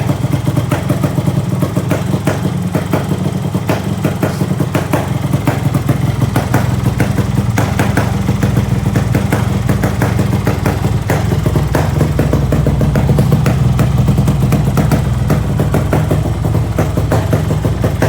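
Two-stroke motorcycle engine idling through an aftermarket boter exhaust, a steady fast pulsing beat.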